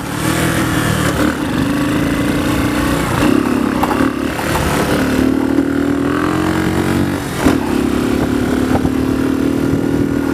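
Motorcycle engine running at fairly steady revs, its pitch dipping and rising a little a few times.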